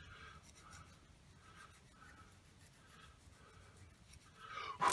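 Cheap emery nail file sanding foam with light, even strokes, about two or three a second, rounding off a repaired foam tail piece of a model plane. A brief louder sound comes at the very end.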